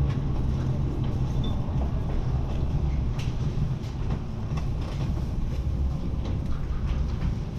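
Lausanne-Ouchy rack-railway train running downhill, heard on board: a steady low rumble with scattered, irregular clicks.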